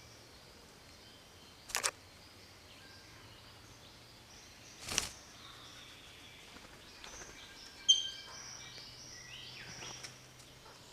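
Rainforest birds calling faintly, broken by short harsh bursts about two and five seconds in, then a sharp burst near eight seconds followed by a quick run of chirps and whistles.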